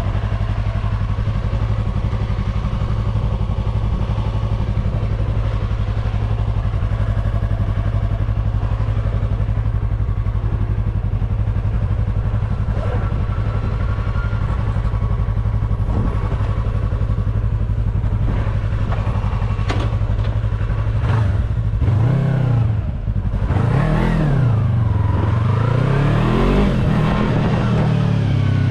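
Yamaha R3 motorcycle's parallel-twin engine idling steadily, then revved in several quick rises and falls over the last several seconds.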